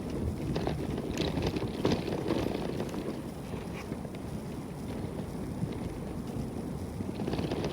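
Wind buffeting the microphone over a low rumble of a bicycle riding a rough track, with scattered short knocks and rattles.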